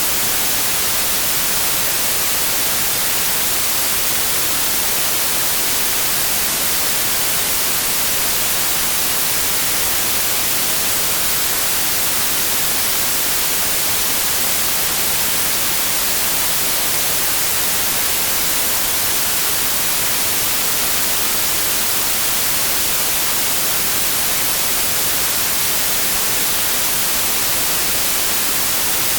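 Steady, unchanging electronically generated white noise: an even hiss across all pitches, brightest at the top.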